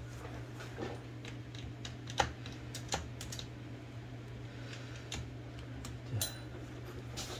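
Scattered small metallic clicks and taps as the carriage bearings and guide gear of an Olivetti Linea 98 typewriter are handled and pushed into place, the sharpest click about two seconds in, over a steady low hum.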